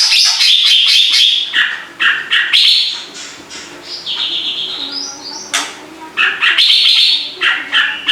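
A cucak ranting jawa songbird singing in lively, continuous form. It gives rapid runs of high chirping phrases, with only brief pauses between them.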